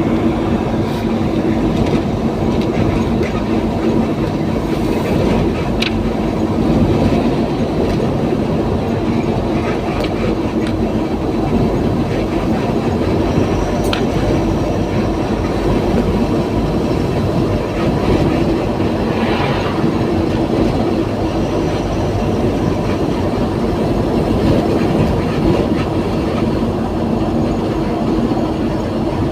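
Steady rumble and drone of a heavy vehicle in motion, with a constant low hum running through it.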